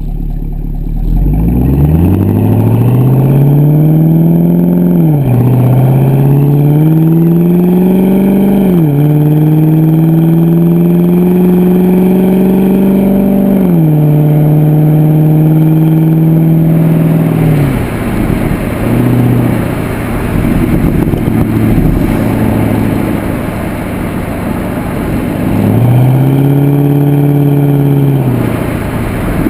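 Pontiac G8 GXP's LS3 V8 through a Corsa exhaust, accelerating hard through the gears. The exhaust note climbs and drops sharply at three upshifts, then settles to a low steady rumble while cruising, with a short burst of throttle near the end.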